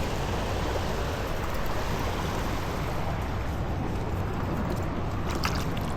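Steady rushing of a small stream flowing over rocks, an even unbroken noise.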